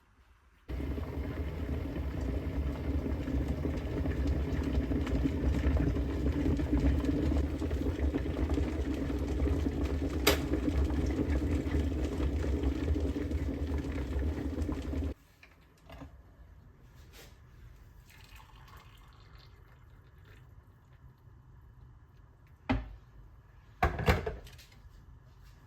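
Water running from a tap, a steady rush that starts abruptly and cuts off after about fourteen seconds. Two light knocks follow near the end.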